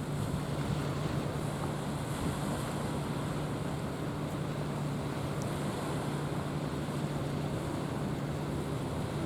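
Steady low drone of a container ship's engine under way, with waves washing and wind buffeting the microphone.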